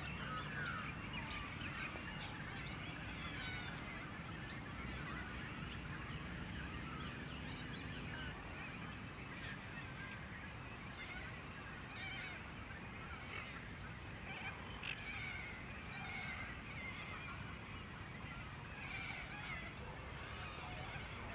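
Birds calling continuously, many short calls overlapping one another.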